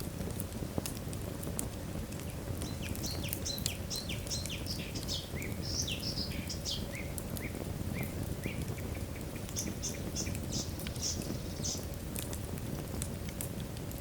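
Wood fire burning in a fireplace: a steady low rumble with many sharp crackles and pops. Through the middle there is a run of short, high, falling squeaks, and a few more near the end.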